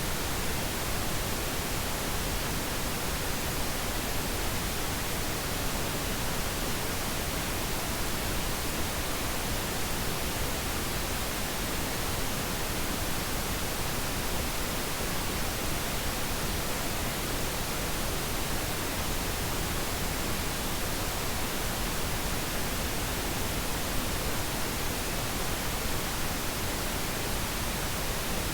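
Steady pink noise: an even, unchanging hiss with nothing else in it.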